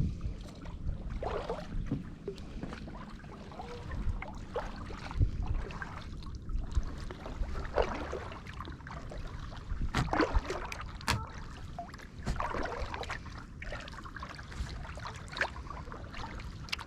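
Kayak paddle strokes: the paddle blades dip and splash, and water drips off them in irregular bursts every second or two. A low wind rumble on the microphone runs underneath.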